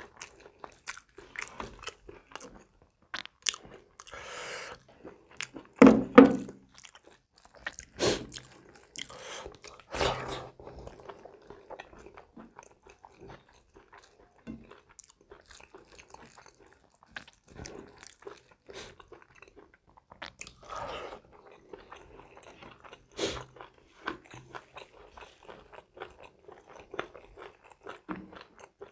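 Close-miked eating: a man chewing and crunching a mouthful of rice and curry, with many irregular short clicks and a few louder crunches.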